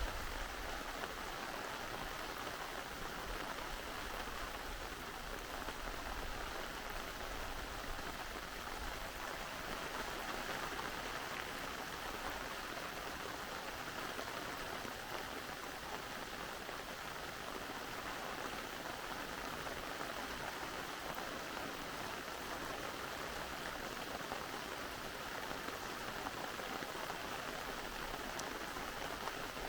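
Steady rain falling and pattering on surfaces, blended with the rush of a mountain valley stream.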